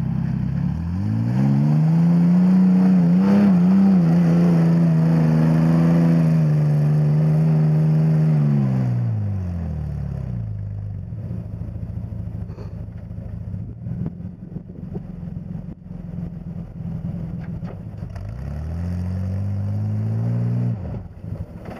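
Off-road pickup truck engine revving up and holding high revs for several seconds, then dropping back. A stretch of rattling and knocking follows, then the engine revs up again and cuts back near the end.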